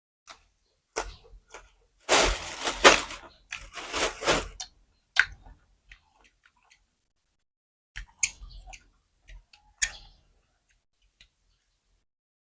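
Close-up crunching and crackling of crisp food being bitten and chewed, a dense run of crunches about two seconds in, then scattered smaller crunches and clicks.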